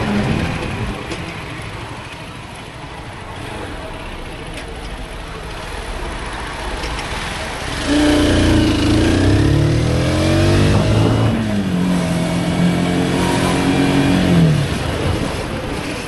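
Voge 250RR single-cylinder motorcycle engine under hard throttle: from about halfway in its pitch climbs and shifts up and down with the gear changes, then falls away near the end as the throttle closes. Before that, mostly a steady rush of wind noise.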